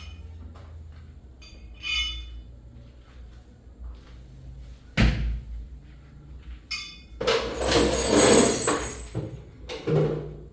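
Metal engine parts and hand tools being handled and set down during engine assembly: scattered clicks and clinks, one ringing clink about two seconds in and a sharp knock about halfway, then a longer scraping, rustling stretch near the end followed by another knock.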